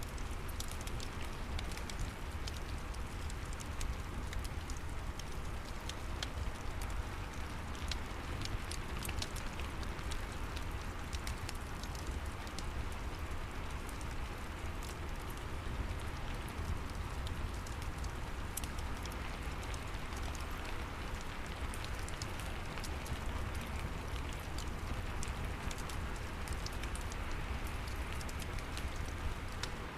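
Steady rain with scattered sharp crackles from a fireplace, as one continuous ambience mix over a low rumble.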